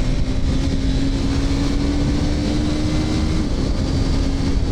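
KTM RC 390's single-cylinder engine pulling under way, its note climbing slowly for about three and a half seconds and then falling suddenly, as at an upshift. Wind rushes over the helmet microphone throughout.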